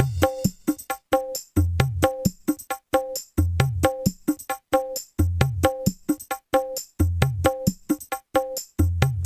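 Bass-heavy instrumental electone music played through a large PA sound system during a sound check. Deep, soft bass hits come about every two seconds under a quick, busy pattern of crisp percussion and a short repeated pitched note.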